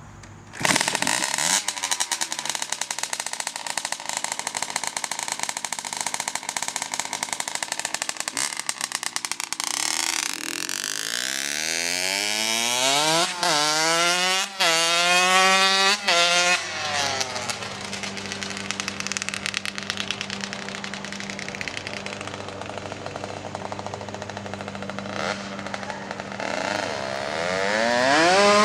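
Suzuki RM65 two-stroke dirt bike engine starting about half a second in and revving. It then accelerates away, rising in pitch through several gear shifts, runs at a steadier pitch further off, and comes back louder with rising revs near the end.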